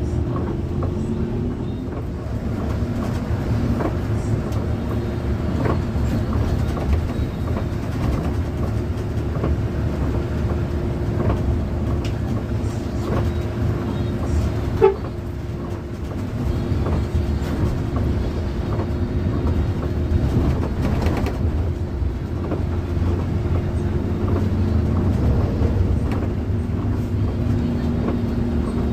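Steady engine and road noise of a moving intercity bus heard from inside the cabin, with a low hum and faint scattered rattles. A brief high beep or toot about halfway through.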